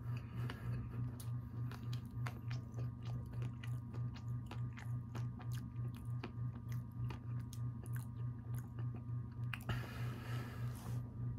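Chewing a crunchy pan dulce sugar cookie covered in sprinkles: a steady run of small crunches.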